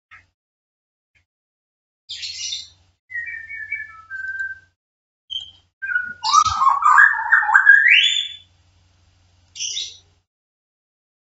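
A bird chirping and whistling. Short high chirps come every few seconds, falling whistles about three seconds in, and a louder warbling call about six seconds in whose pitch rises at the end.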